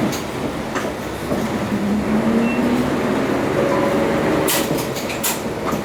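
Isuzu U-LV318L route bus's diesel engine pulling away from a stop, heard from inside the cabin, its tone rising in pitch as it accelerates, over body and road rumble. A few sharp clicks or rattles come near the end.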